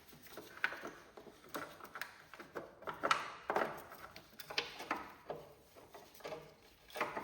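Irregular light knocks, clicks and rattles, one or two a second, of hands and tools working on parts.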